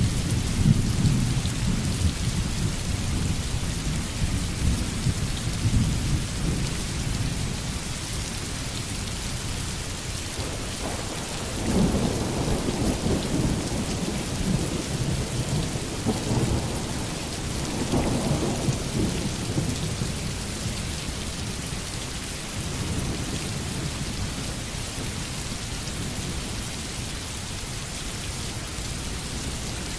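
Thunderstorm: steady heavy rain with rolls of thunder. Low rumbles swell near the start and again about twelve and eighteen seconds in, then fade.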